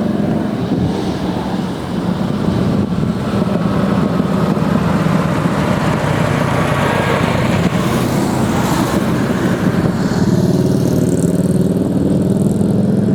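Steady motor-vehicle engine hum with road and traffic noise.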